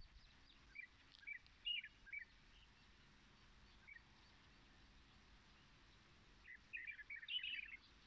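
Faint chirping of small songbirds: a few short high chirps in the first two seconds, a single one about halfway through, then a quick run of chirps near the end.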